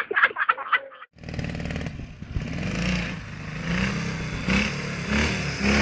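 Motorcycle engine running and revving, starting abruptly about a second in, its pitch rising and falling several times.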